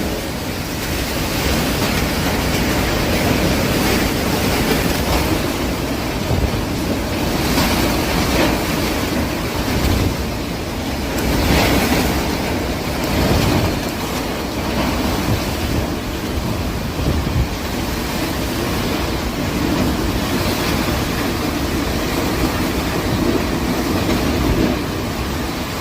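Loud storm wind blowing in gusts and buffeting the microphone, in a continuous rushing noise that surges several times.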